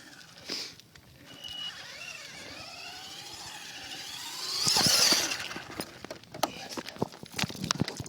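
RC car motor whining, rising and falling in pitch, then a loud scraping rush about five seconds in, followed by scattered clicks and knocks.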